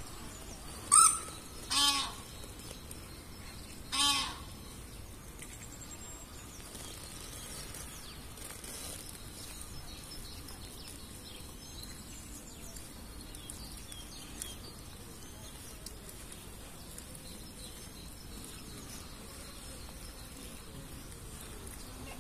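Birds calling outdoors: three short, loud calls in the first four seconds, then faint scattered chirping over a steady low background hum.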